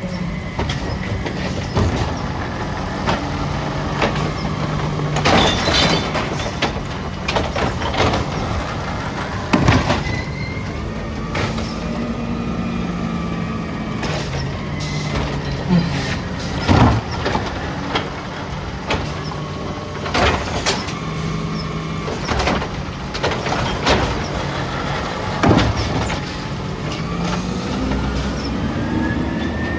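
Peterbilt 320 garbage truck at work: its diesel engine runs and revs up and down, with a dozen or so sharp clanks and bangs and the hiss of air brakes.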